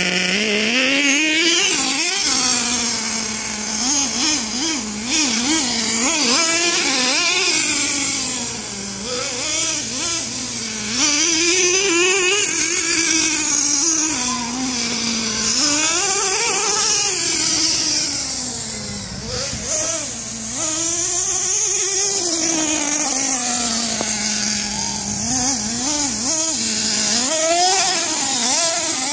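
Vertex Racing .25 nitro engine of a Redcat Earthquake 3.5 RC truck revving up and down over and over as the throttle is worked. It is steady at idle at the very start and climbs in pitch within the first second.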